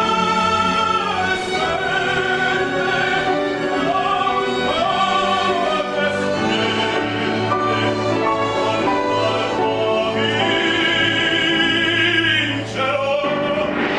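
Operatic solo voice singing with orchestral accompaniment, including a long held note with vibrato near the end.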